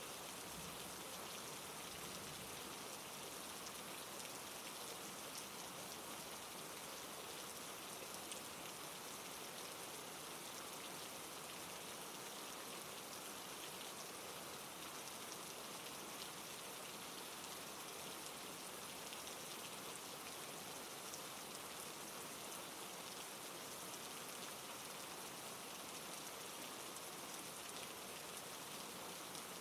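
Steady rain falling: an even hiss with many small drop ticks, level throughout.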